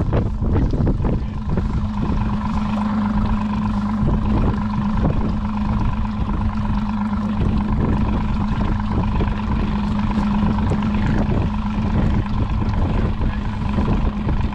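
Boat motor running at a steady pitch, its hum constant throughout, under a choppy low rumble of wind buffeting the microphone.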